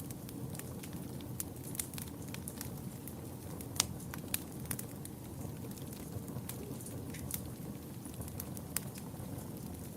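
Wood fire in a fireplace burning with a steady low rumble, crackling and popping with irregular sharp snaps, one louder pop a little before the middle.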